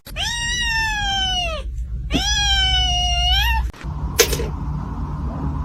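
A cat giving two long, drawn-out meows about half a second apart, each rising and then sliding down in pitch. A short sharp click follows about four seconds in.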